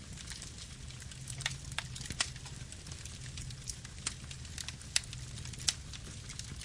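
Wood fire burning: a steady low rumble and hiss of flames with sharp crackles and pops from the burning wood at irregular intervals, a few every second or two.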